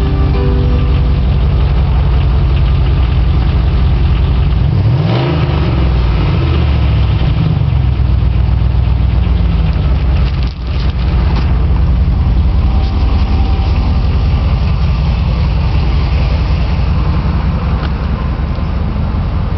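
2000 Dodge Durango's 4.7-litre V8 idling cold with no tailpipe, the exhaust open after the muffler. About five seconds in it is revved once, the pitch rising and falling back to idle.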